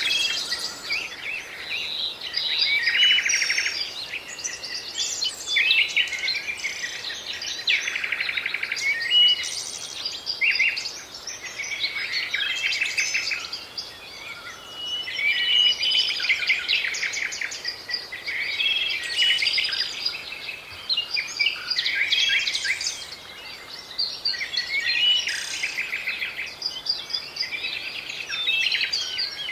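Several songbirds singing and calling at once, a dense chorus of overlapping chirps, rapid trills and short whistles that never lets up.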